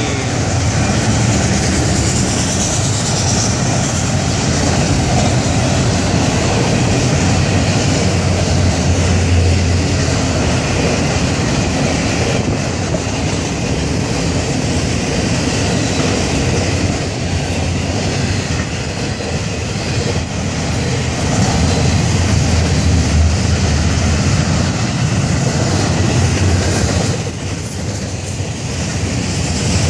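Florida East Coast Railway freight train cars rolling past close by: auto rack cars, then double-stack container cars, their steel wheels running on the rails in a loud, steady rumble, dipping briefly near the end.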